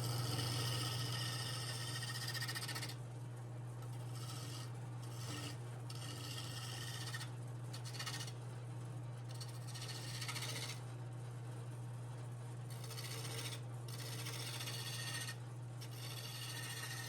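Wood lathe motor humming steadily while a spinning walnut table leg is worked, giving a high rasping that stops and starts several times.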